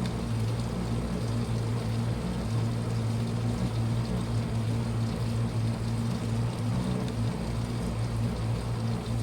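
Washing machine running: a steady motor hum with a rushing, watery noise over it.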